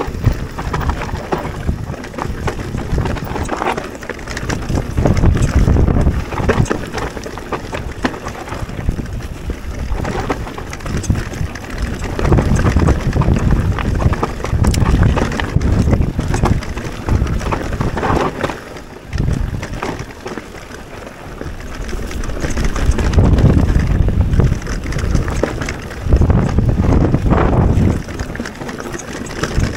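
Mountain bike descending a rough trail: wind buffeting the action-camera microphone over the rumble and rattle of tyres and bike on dirt and rock. The noise surges and eases with the terrain, going quieter for a couple of seconds about two-thirds through.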